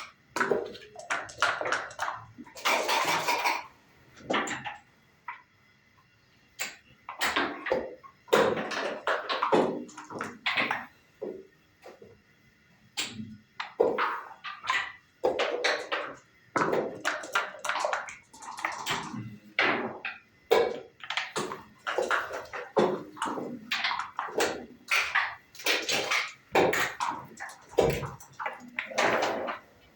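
Dice rattled and thrown onto a backgammon board, with checkers clacked down as moves are made: a string of short clatters and taps with brief pauses between them.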